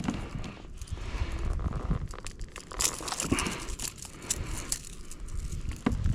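Irregular handling noise: scattered clicks and knocks over rustling, as a fish and tackle are handled in a kayak.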